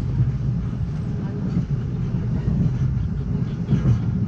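Steady low rumble of an Amtrak Cascades passenger train running along the track.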